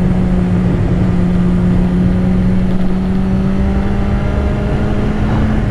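BMW S1000RR's inline-four engine running on the stock exhaust while riding at steady revs, the note climbing slightly in the second half, with wind rumble on the helmet-mounted microphone.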